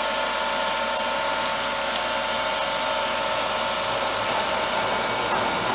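Fans of 12-volt portable evaporative air coolers running, a steady rush of blown air with a faint steady tone through it.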